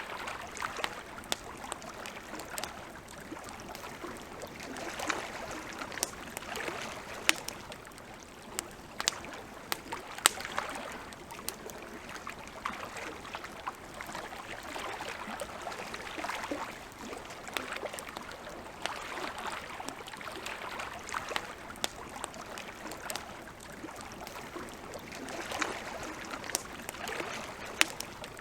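Wood campfire crackling, with frequent sharp pops and a few louder snaps, the loudest about ten seconds in. Under it a soft wash of lapping lake water swells and fades every few seconds.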